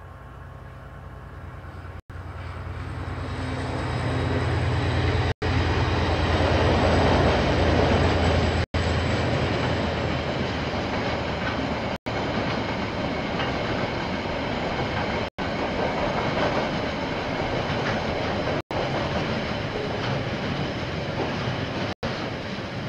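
A KiwiRail diesel-hauled train passing. The locomotive's engine hum grows loud over the first several seconds, then the wagons roll by on the rails with a steady rumble. The recording drops out for an instant about every three seconds.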